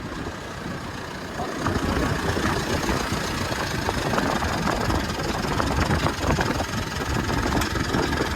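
A vehicle engine idling with a rough, knocking texture, getting louder about a second and a half in and then holding steady.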